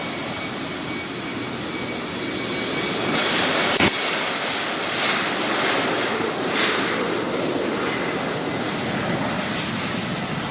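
Jet airliner's engines running loud, a wide roar with a thin steady high whine, swelling about three seconds in and slowly easing off. A sharp click comes about four seconds in.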